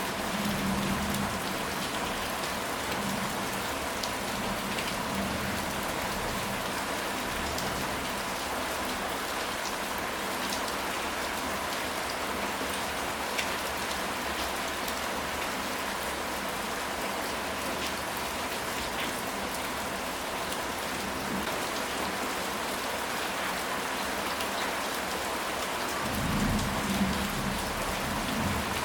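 Steady rain falling, with scattered sharper drop hits. A low rumble of thunder sounds at the start, and another comes in about three seconds before the end.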